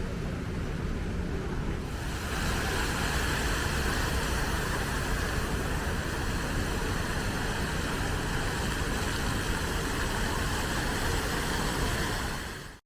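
Steady road traffic noise with a hiss, growing louder and brighter about two seconds in, then fading out near the end.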